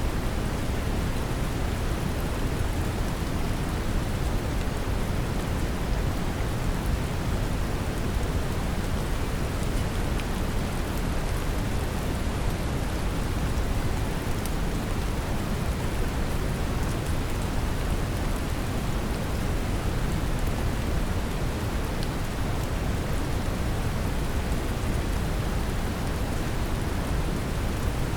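Steady brown noise with a deep, even rumble, mixed with a rain recording in which faint light drop ticks sit on top.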